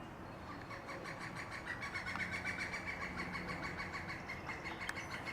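Pileated woodpecker calling: a rapid, evenly spaced series of high notes that starts about half a second in and grows louder.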